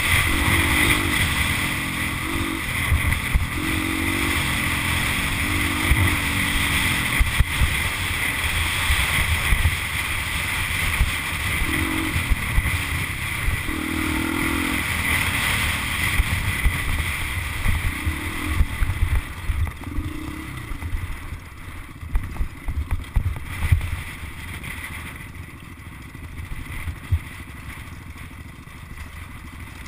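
Motocross dirt bike engine running and revving in short rises and falls, over heavy low rumble and buffeting. It grows quieter about two thirds of the way in.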